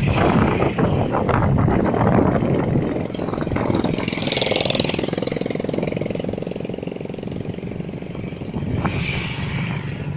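Heavy vehicle engine running hard, with a short hiss about four seconds in, then settling to a steadier tone.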